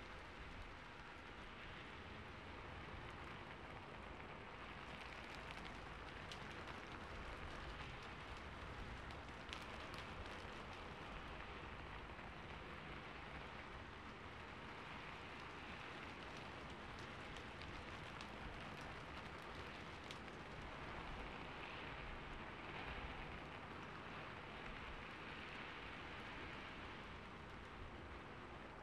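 Ambience recording of rain on a rooftop: a faint, steady patter with occasional sharper drop ticks.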